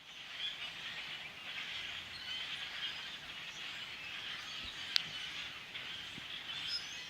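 Large flock of blackbirds chattering, many short calls overlapping into a steady din. A single sharp click about five seconds in.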